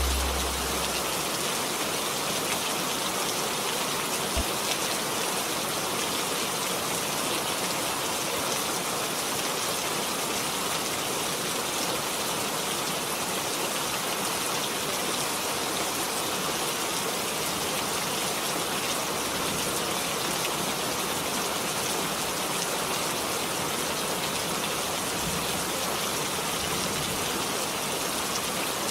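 Steady rain falling, an even wash of rain noise that does not change.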